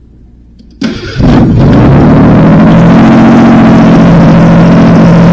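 Ford 2.9 V6 with no exhaust fitted, cranking briefly and catching about a second in, then running loud and steady through open ports. The engine spent a night underwater and had gallons of water drained from it.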